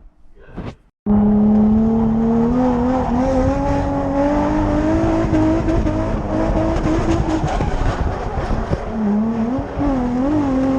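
Drift car engine held at high revs, its tyres squealing, starting suddenly about a second in. The engine pitch holds fairly steady at first, then rises and falls quickly several times near the end as the throttle is worked.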